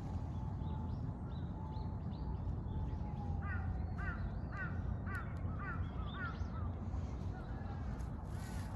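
A bird giving a run of about six short, harsh calls, roughly two a second, a few seconds in, with fainter higher bird calls around it over a steady low outdoor rumble.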